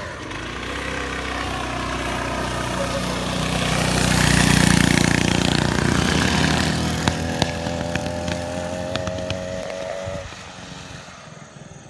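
Small motor bike engine running at speed, growing louder to a peak about four to five seconds in, then fading away as it moves off. A few sharp clicks come a little past the middle.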